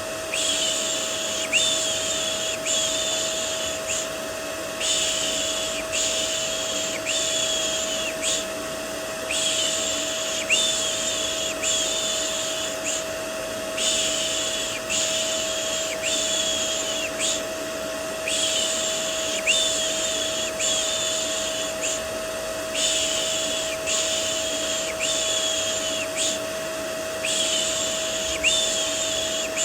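Vacuum cleaner running steadily with a constant motor whine, overlaid with rhythmic 'shh' shushing for soothing a baby. The shushes come in runs of three or four strokes, with a brief pause between runs.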